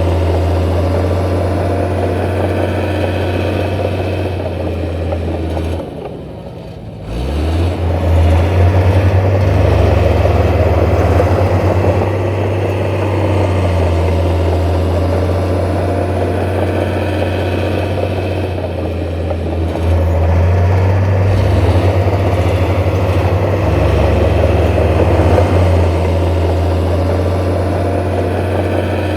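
Diesel engine of heavy earthmoving machinery running steadily, with a deep hum; it drops briefly about six seconds in, then comes back up.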